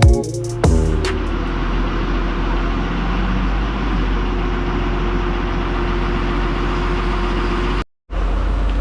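A diesel engine running steadily at idle, a constant low hum, cut off by a brief dropout near the end. The tail of electronic music is heard in the first second.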